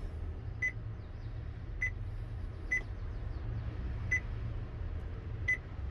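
Five short, high beeps at uneven intervals from an Android multimedia head unit's touchscreen as its icons are tapped, over a steady low hum.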